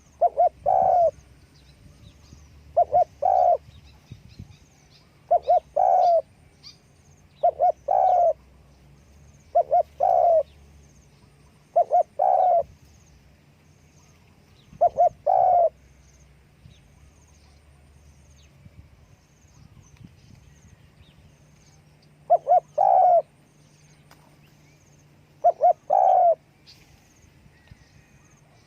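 Spotted dove cooing: each phrase is a couple of short notes run into a longer coo, repeated about every two seconds, with a pause of several seconds before two more phrases near the end. Faint high chirps of small birds are heard between the coos.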